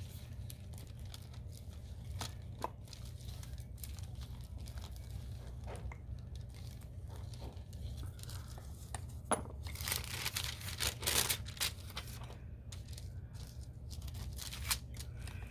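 Wax paper crinkling and rustling as a wooden roller rolls air-dry clay out between two sheets, in irregular scrapes that grow louder about ten seconds in. A steady low hum runs underneath.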